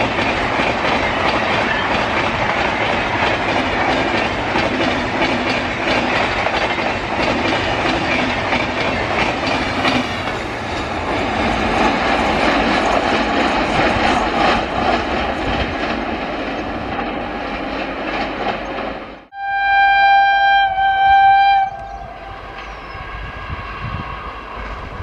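An Indian Railways electric train running past with a steady rumble and the clickety-clack of its wheels on the rail joints. Near the end the sound breaks off suddenly and a train horn blows one loud, steady blast of about two seconds, the loudest sound in the stretch.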